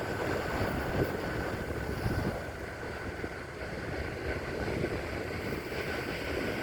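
Ocean waves crashing on a beach: a steady rush of surf with a couple of louder swells in the first half.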